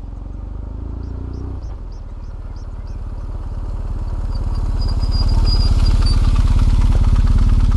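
BMW R1150GS flat-twin motorcycle engine running, growing louder over the first few seconds and then holding steady.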